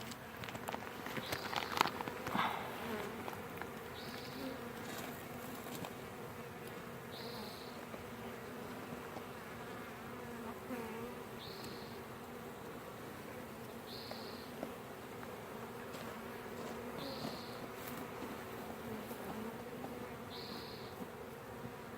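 A swarm of honey bees buzzing in a steady, wavering hum as they crowd at the hive entrance to move in. A short, high chirp sounds every few seconds.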